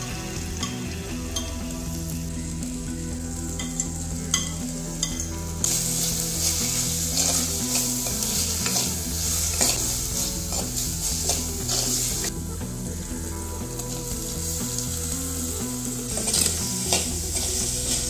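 Crushed onion, ginger and garlic with mustard seeds sizzling in hot oil in a pan, stirred with a spatula, with a few sharp spatula clicks about four seconds in. The sizzle gets much louder about six seconds in, eases off about twelve seconds in, and gets louder again near the end as green chillies, curry leaves and tomatoes are in the pan.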